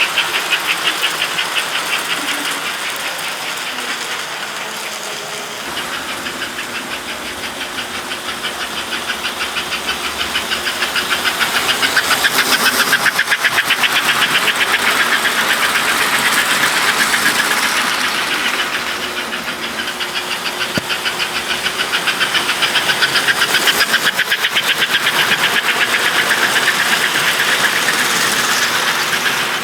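Model trains running on HO and American Flyer S-gauge track: a fast, even clatter of motors and wheels that swells twice as a train comes close and fades between.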